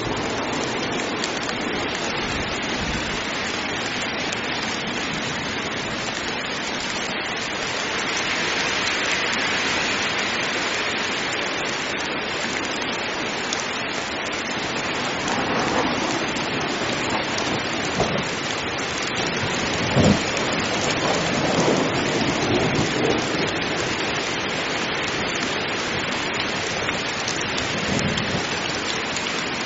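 Heavy rain falling steadily in a thunderstorm, with several thunder cracks and rumbles in the middle, the loudest about twenty seconds in.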